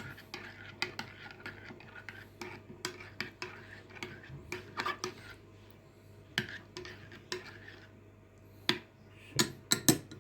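A spoon stirring coffee in a cup, clinking irregularly against the sides, with a few louder clinks near the end.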